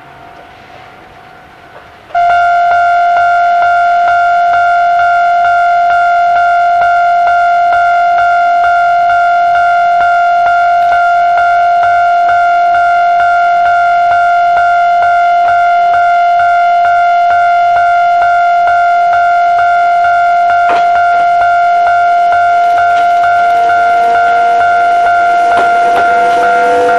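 Railway level crossing warning alarm, a loud steady high tone that switches on suddenly about two seconds in and keeps sounding. Near the end a faint rising whine joins it as a train approaches.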